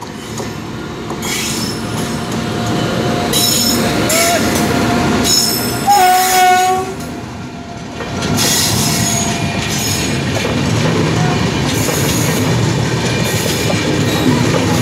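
An Indian Railways electric locomotive hauling a passenger express passes close by at speed, with a short horn blast about six seconds in. After that come the rumble and clatter of the passenger coaches' wheels rolling over the rails.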